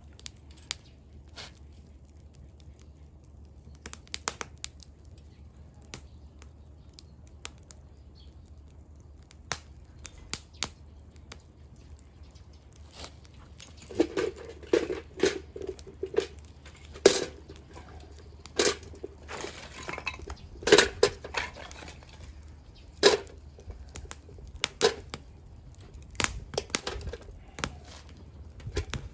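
Burning firewood crackling, with scattered sharp pops at first and denser crackling and popping from about halfway through.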